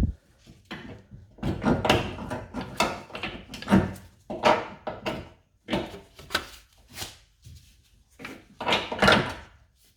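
Irregular clunks and scrapes of a jack being set under the engine and worked into place, about one knock every half second to a second.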